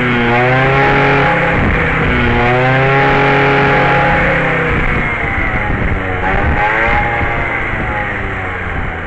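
Suzuki ZZ 50cc two-stroke scooter engine being revved. The pitch rises and falls as the throttle is opened, holds high for a couple of seconds, then drops back toward idle with a smaller blip near the end.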